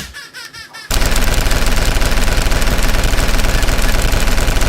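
Rapid automatic gunfire sound effect: one long, unbroken burst of fast shots that starts about a second in.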